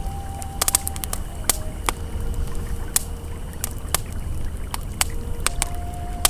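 Campfire crackling with scattered sharp pops over the steady low rush of a flowing river. A soft held ambient tone steps down in pitch in the first two seconds and rises again near the end.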